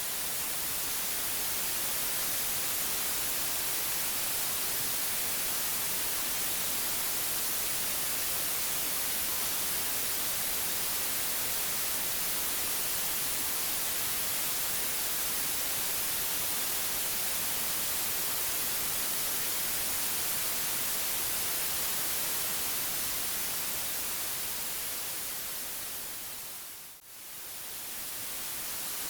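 Steady white noise, an even hiss across the whole range, brightest in the highs. About two seconds before the end it briefly fades down and swells back up.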